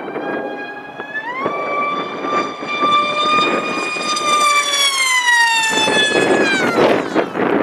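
Stryker RC flying wing's Castle electric motor and propeller whining in flight: the pitch rises about a second in, holds high and steady, then slides down near the end. Wind buffets the microphone, most of all as the whine fades.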